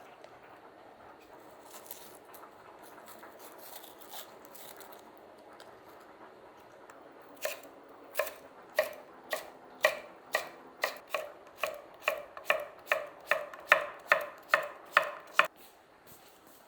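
Knife chopping food on a cutting board: a run of about twenty crisp strokes that gradually speed up. It is preceded by a faint steady hiss with a few light clicks.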